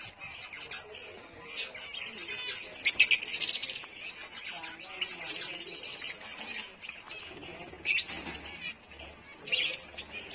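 Small birds chirping and tweeting in repeated short bursts, loudest in a cluster about three seconds in.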